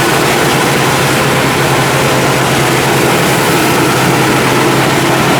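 Meatball grinding machine running steadily under power on a test run, just after its loose bolts were tightened; a constant low hum under a loud mechanical whirr.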